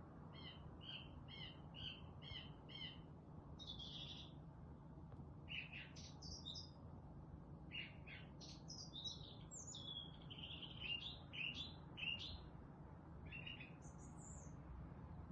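Songbirds singing and chirping: a run of repeated short chirps about two a second, then varied whistled phrases and calls, over a faint low steady hum.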